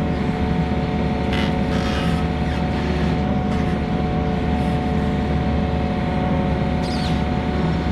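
Skid steer's engine running steadily at a constant speed, with a few brief sharp noises over it.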